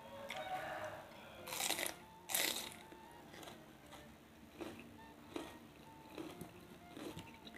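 Two loud crunchy bites into a raw vegetable, about a second and a half in and again just over two seconds in, then quieter chewing with soft wet mouth clicks.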